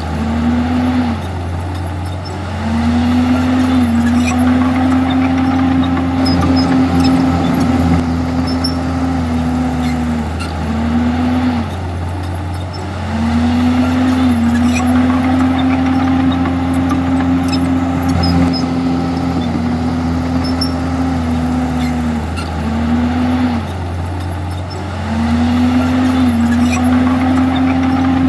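Komatsu D51EX bulldozer's diesel engine working under load. Its note holds high for long stretches and sags briefly every ten seconds or so, in a repeating push cycle.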